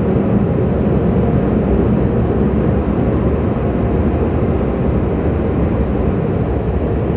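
Steady, loud rushing noise of automatic car wash machinery, most likely the air dryers, heard from inside the car's cabin.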